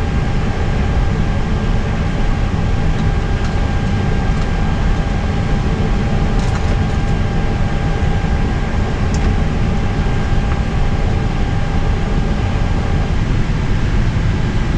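Steady rumble and hum of a parked airliner's flight deck before engine start, with a faint steady whine from onboard equipment that fades out near the end.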